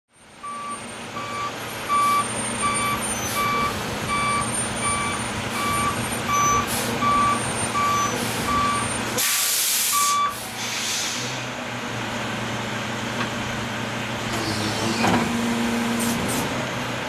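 Truck backing up: its reversing alarm beeps steadily, about three beeps every two seconds, over the running engine, and stops about ten seconds in. A loud, sharp hiss of released air, like an air brake, comes about nine seconds in, and the engine keeps running after it.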